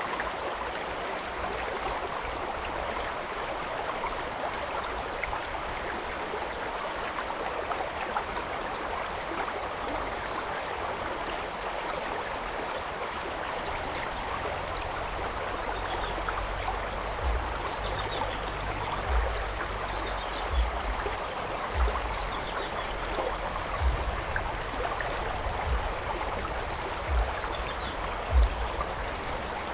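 Stream water rushing and splashing steadily over rocks. From about halfway there are also irregular low thumps, and faint repeated high calls sound for a few seconds in the middle.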